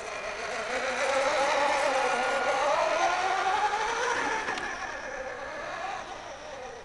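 Radio-controlled 1/6 scale Dodge WC52 model truck driving, its drive giving a whine that rises in pitch to a peak about four seconds in, then falls and fades out at the end.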